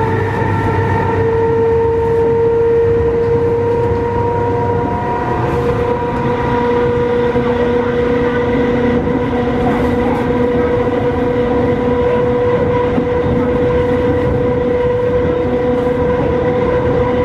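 Nose-suspended traction motors of an MTR East Rail MLR electric multiple unit whining under the train as it runs at speed. The whine is a steady two-note hum that rises only slightly in pitch, over continuous wheel-and-rail rumble.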